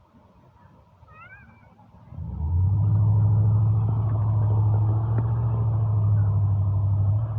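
A vehicle engine comes in loud and close about two seconds in. It runs at a steady low pitch with no revving, then drops off at the very end.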